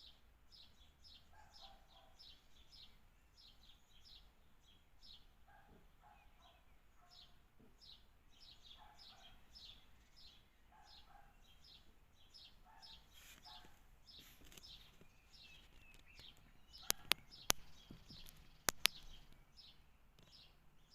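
Small birds chirping: short, high, falling chirps repeated a few times a second, mixed with softer, lower calls. A few sharp clicks come in two quick clusters near the end.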